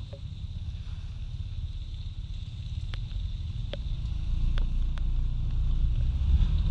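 Riding noise on a Kymco Like 125 scooter: a low wind and road rumble that grows louder toward the end, with scattered sharp ticks.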